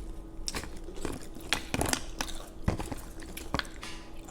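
Close-miked eating sounds: chewing, with scattered short, sharp clicks and taps of chopsticks on dishes, about two a second.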